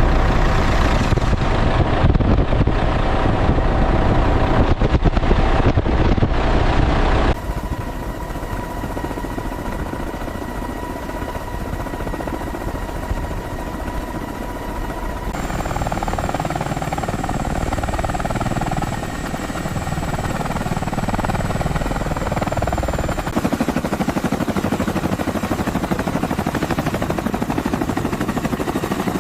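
Heavy machinery running with a steady low engine rumble and a faint steady whine. The sound changes abruptly about every eight seconds: loudest and roughest in the first seven seconds, then smoother and quieter.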